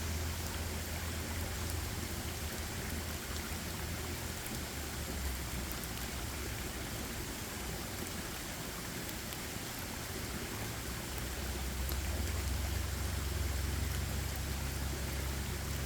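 Steady rain falling in a forest, an even hiss of drops. A low rumble sits underneath and grows stronger about eleven seconds in.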